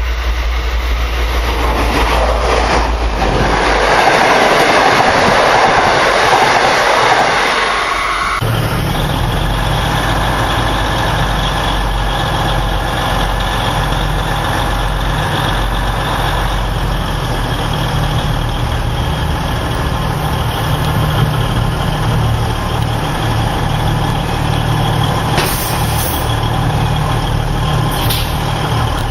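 A V/Line train running past, loudest a few seconds in. Then an abrupt change to a diesel locomotive engine idling steadily.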